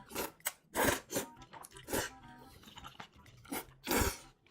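Crunchy chewing of food in a person's mouth: about six irregular crunches, the loudest about a second in and near the end.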